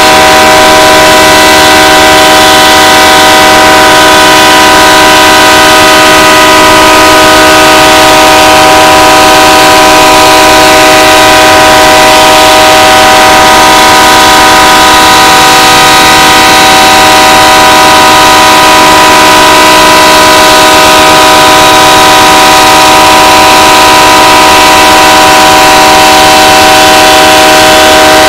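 BNSF locomotive's multi-chime air horn held on in one continuous, very loud, unchanging chord. It is stuck sounding on a stopped train with no engineer aboard.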